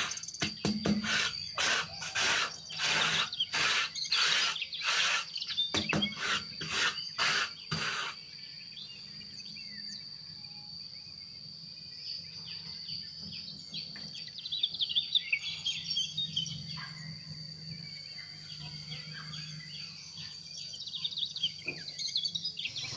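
Birds chirping over a steady high-pitched insect drone. For the first eight seconds a run of evenly repeated strokes of some manual work, about two a second, is louder than the birds, then stops.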